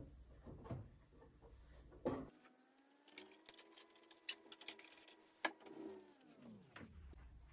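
A small electric motor starts about two seconds in, runs steadily for a few seconds, then winds down with its pitch falling until it stops. Sharp knocks and clicks sound around it.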